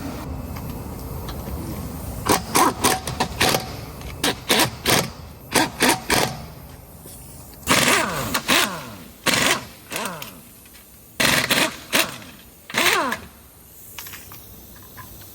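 Car engine revved in clusters of short, sharp bursts, about a dozen blips in all, its pitch falling after each.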